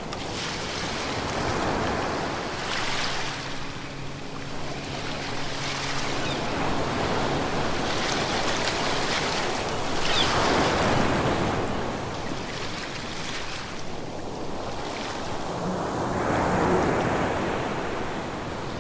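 Ocean waves breaking and washing in, swelling in slow surges every few seconds, with a faint low hum for a few seconds near the start.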